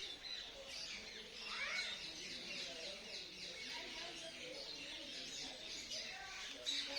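Double-barred finches chirping: a steady stream of short, high, falling chirps, louder near the end.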